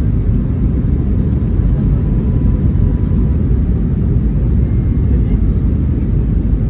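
Steady low rumble of cabin noise inside an Airbus A321neo in flight: engine and airflow noise heard from an economy seat.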